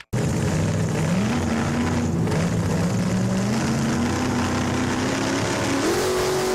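GM 5.7-litre V8 engine of a giant chopper motorcycle running loudly, its pitch climbing in three steps as it is revved up.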